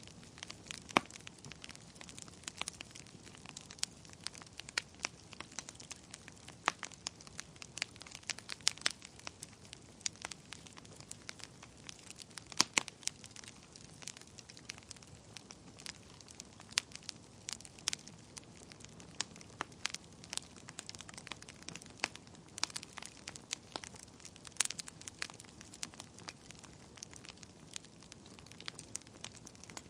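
Wood fire burning in a fireplace, crackling with frequent irregular sharp pops over a soft hiss.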